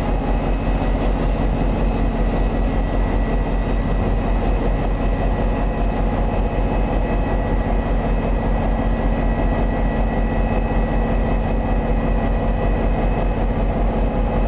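A standing train's machinery running steadily: a low drone with a few high whining tones held unchanged throughout, with no clatter of wheels on rail.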